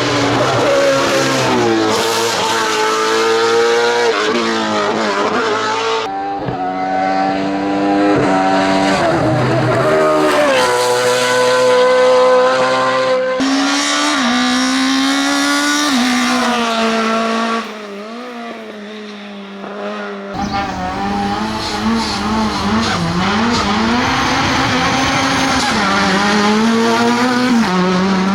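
Racing car engines accelerating hard up a hillclimb, the pitch climbing through the revs and dropping at each gear change. There are several passes, with abrupt changes between them and a quieter stretch about two-thirds of the way through.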